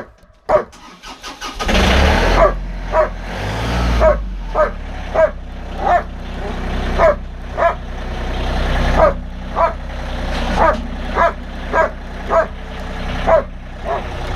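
A tractor engine starts about two seconds in and keeps running. A dog barks over and over throughout, about every half second to a second.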